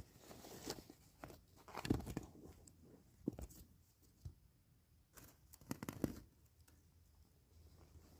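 Intermittent rustling and crunching handling noises with a few sharp clicks, from gear being moved about.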